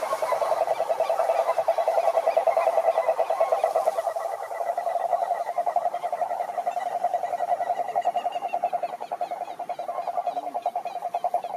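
Chorus of many frogs calling, likely males giving mating calls: a continuous, rapidly pulsing trill with fainter higher calls over it.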